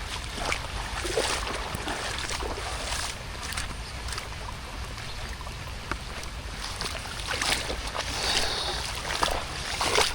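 Steady rain with irregular splashes and sloshing of water.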